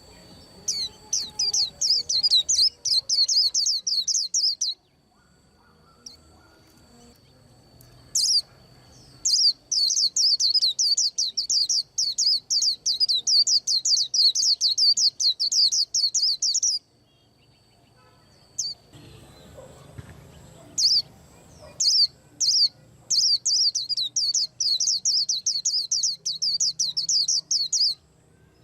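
White-eye singing a rapid, high twittering song in long runs of several seconds, with short pauses and a few single chirps between them.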